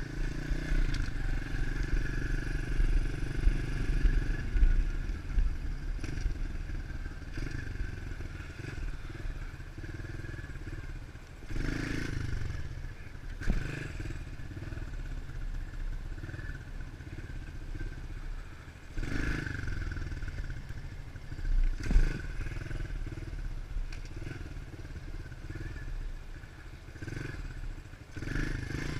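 A 110 cc pitbike's four-stroke single-cylinder engine running under way, with short louder bursts of throttle about twelve, nineteen and twenty-two seconds in.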